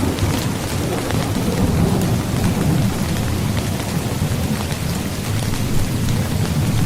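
Steady heavy rain with fine drop ticks, over a continuous low rumble of thunder.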